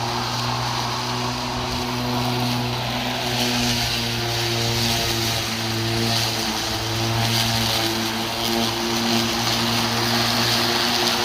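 Hart 20V cordless push mower's electric motor and blade running steadily, cutting tall, thick, damp grass, with a brief dip in speed a little past the middle.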